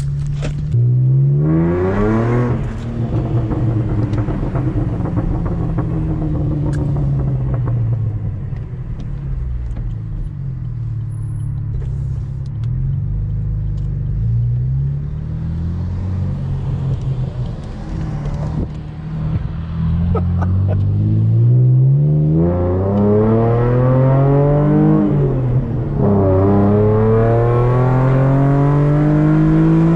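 Stock 3.6-litre V6 of a 2015 Chevrolet Camaro heard from inside the cabin, pulling hard under acceleration: the engine note climbs steeply and drops at an upshift about two seconds in, runs at moderate revs through the middle, then climbs hard again over the last eight seconds with another upshift partway through.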